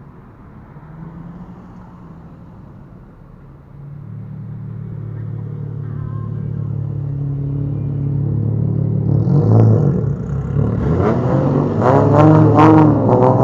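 A bosozoku-style car engine running, growing steadily louder as it draws near, then revved in repeated quick throttle blips over the last few seconds.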